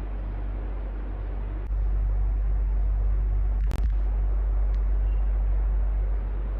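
Electric fan running steadily: a low hum under a rush of air. About a second and a half in, the hum grows louder, and a single sharp click comes a little past the middle.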